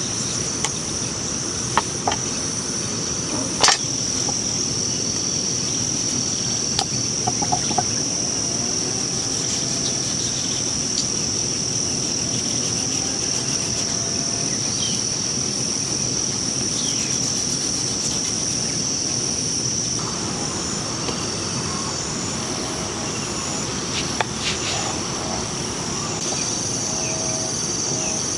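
Insects, crickets or similar, chirring in a continuous high drone with a faster pulsing layer above it, over an even low rushing noise. A few sharp knocks stand out about two and four seconds in.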